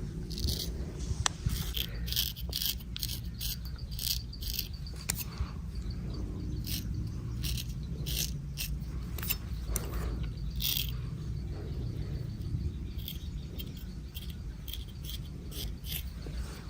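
Short, crisp scraping strokes of a barber's blade on hair and skin, coming irregularly, several close together at times, over a steady low background hum.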